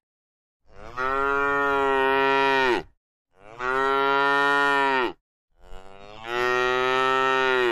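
Cow mooing three times, each moo a long, steady call of about two seconds.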